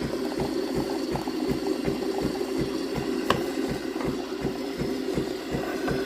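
Miele CVA 4070 super-automatic espresso machine frothing milk through its cappuccinatore: the pump runs with a steady pulsing of about four beats a second under a bubbling, hissing steam-and-milk sound. A single sharp click comes about three seconds in.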